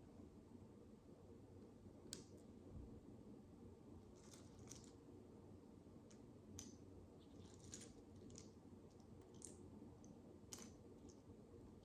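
Faint clicks of micro building bricks (tiny plastic bricks) being handled and pressed together: about ten small, sharp ticks at irregular intervals over a low steady hum.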